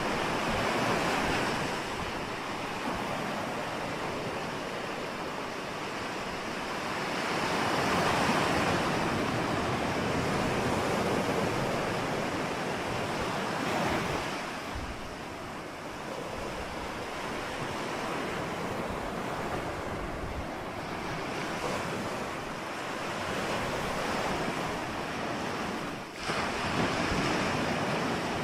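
Ocean waves breaking and washing on a shore, a steady rush that swells and eases every several seconds, loudest about a third of the way in and again near the end, with wind rumbling on the microphone.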